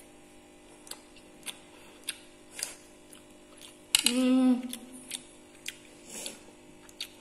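Faint scattered clicks and lip smacks of someone chewing a mouthful of fried chilli idli, with a short voiced sound about four seconds in.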